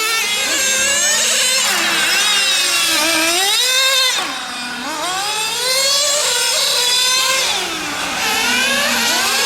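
Small nitro glow engines of radio-control GT cars revving up and down as they lap the track, more than one engine heard at once, their pitch rising and falling every second or two. They briefly ease off about halfway through and again near the end.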